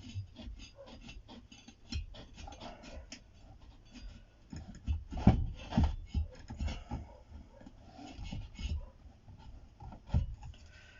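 Handling noises from working on a Fluid Audio C5 studio monitor cabinet on the bench: irregular clicks, scrapes and rubbing, with a couple of louder knocks about halfway through and another near the end.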